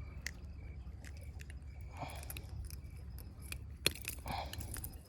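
Faint rustling and scraping with a few short sharp clicks over a low steady rumble.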